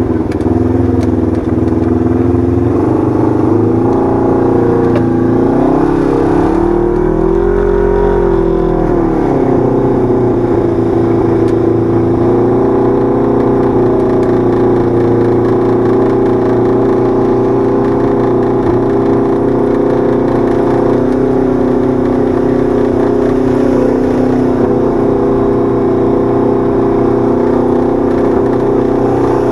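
A side-by-side UTV's 1000 cc parallel-twin engine running at a steady pitch. The revs rise once and fall back between about six and nine seconds in.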